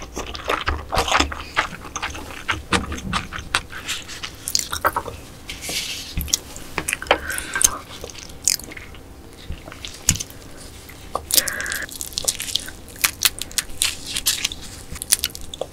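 Close-miked eating sounds: chewing a mouthful of rice mixed with soy-sauce marinated crab, with many sharp wet mouth clicks and smacks.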